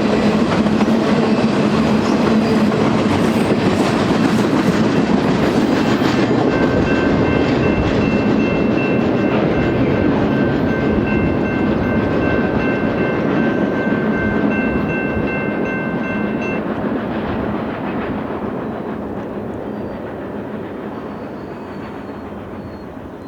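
A freight train rolling past with a steady rumble and clatter of wheels on rail. From about six seconds in to about sixteen, a steady high-pitched ringing of several tones sits over it. The train noise then fades away over the last several seconds.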